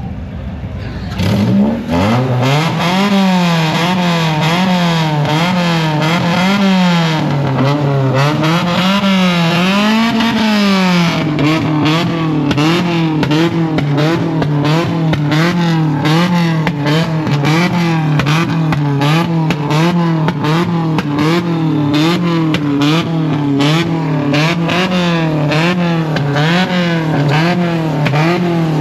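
Car engine revved hard while standing still. The pitch climbs and falls over and over in big sweeps, then from about eleven seconds in it is held high, bouncing quickly up and down with sharp crackles.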